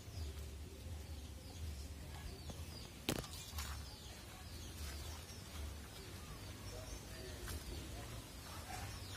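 Faint chirps of small birds over a steady low rumble, with one sharp click about three seconds in.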